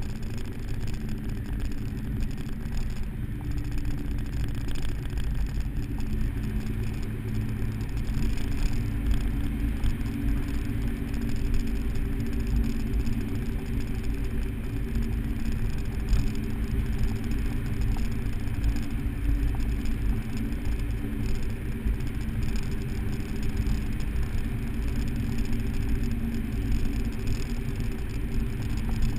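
Supercharged 4.6-litre V8 of a 2003 SVT Mustang Cobra convertible running steadily as the car is driven, heard with the top down.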